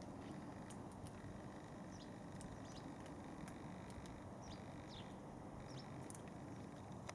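Faint outdoor ambience: small birds give short high chirps several times over a steady low background rumble, with a few faint ticks.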